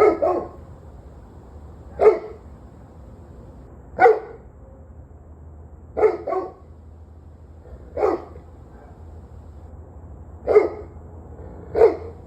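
A dog barking at a steady pace, one bark about every two seconds, with one quick double bark in the middle, over a faint steady hum.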